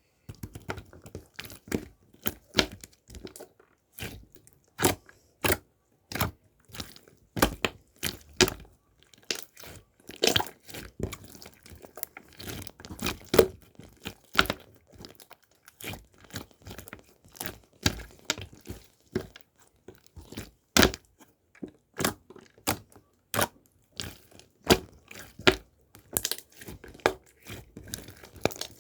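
Irregular sharp crunches and crinkles, one or two a second, with a light rustle between them, like something being crumpled, torn or crunched close to the microphone.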